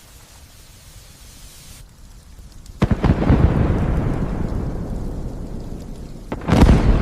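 Light steady rain, then a sudden loud thunderclap about three seconds in that rumbles on and slowly fades, followed by a second sharp clap of thunder near the end.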